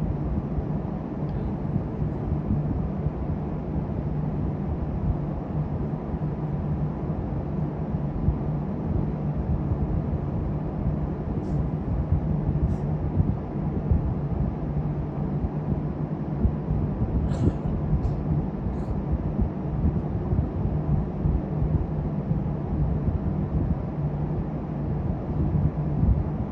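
Steady low rumble and hum of a moving vehicle, with a few faint short ticks in the middle.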